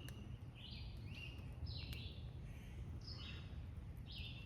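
A bird calling faintly outdoors: a short chirped call repeated about once a second, over a low background rumble.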